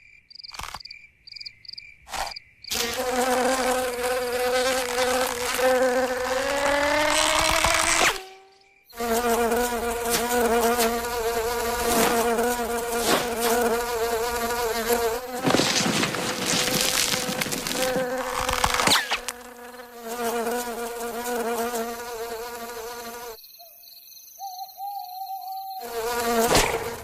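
Cartoon insect wing buzzing: a loud, pitched drone that rises in pitch and breaks off about eight seconds in, then starts up again. Partway through there is a rougher, noisier stretch, and the buzz fades away shortly before returning near the end.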